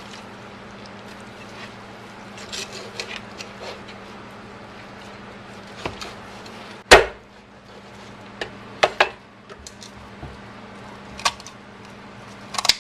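Meat cleaver chopping through raw chicken and bone on a cutting board: scattered chops and knocks, with the heaviest strike about seven seconds in and a few sharper ones later on.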